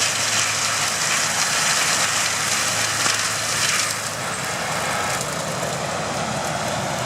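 Heavy stump-removal machinery running: a steady engine hum under a loud hissing, grinding noise that eases about four seconds in.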